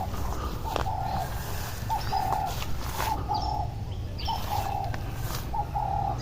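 A dove cooing over and over, a short note followed by a longer held one about once every second, with a few higher bird chirps mixed in over a low steady rumble.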